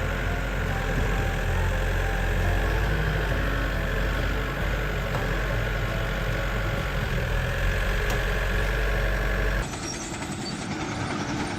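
A heavy machine's engine running steadily with a deep hum. About ten seconds in the sound cuts abruptly to a different, quieter engine.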